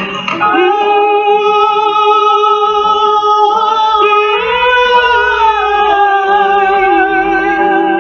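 A woman singing fado, holding long drawn-out notes that step up in pitch about halfway through and then fall back, over instrumental accompaniment.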